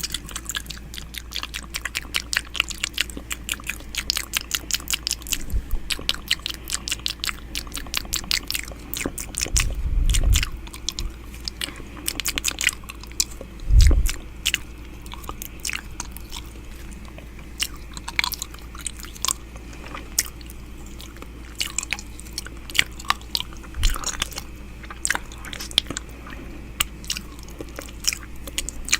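ASMR 'ear eating' mouth sounds close to the microphone: rapid wet clicks and smacks of lips and tongue, dense for the first third and sparser after. A few low muffled thumps come in, the loudest about 14 seconds in.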